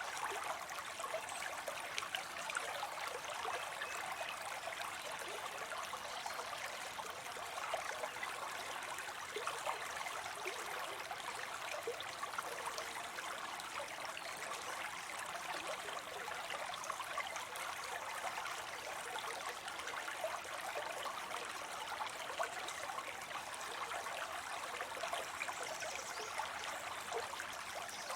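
Small waterfall of water spilling into a pond: a steady splashing, trickling rush.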